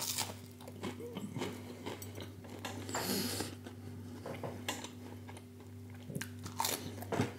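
A person biting into and chewing a piece of toast topped with a melted vegan cheese slice: a crisp bite right at the start, then scattered soft crunches and mouth noises as he chews.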